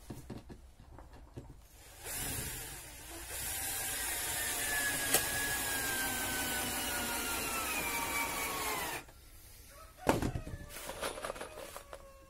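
Electric drill running for about seven seconds, its whine slowly dropping in pitch, then stopping. A sharp knock follows about a second later, with a few lighter clicks.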